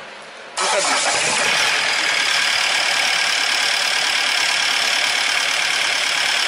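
Diesel engine with a rotary injection pump starts abruptly about half a second in, then runs loudly and harshly at a steady speed. This is a somewhat annoying noise that the mechanic takes for a fault and puts down to the injection pump timing.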